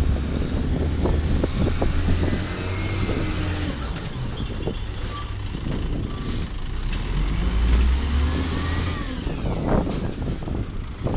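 Diesel garbage truck, a 1995 WhiteGMC automated side loader with a Volvo VED7 engine, running with a steady low rumble. A few faint high-pitched tones come and go in the middle.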